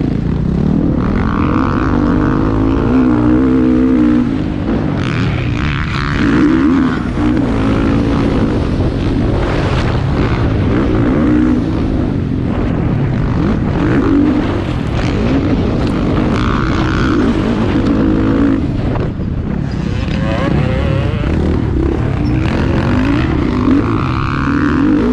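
Motocross bike engines racing, the revs rising and falling again and again as the riders work the throttle and shift through the track.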